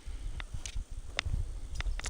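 Soft, irregular thumps and clicks over a low rumble: footsteps and handling noise.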